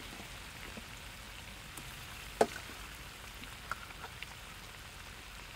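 Oil and red sauce sizzling steadily in a wok, with a few sharp clinks of a metal spoon against a steel pot, the loudest about two and a half seconds in.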